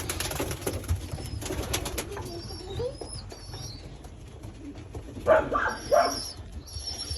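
Pigeons calling in a loft, with two loud calls about five and six seconds in and thin high chirps around them. A short burst of clattering or flapping comes in the first couple of seconds.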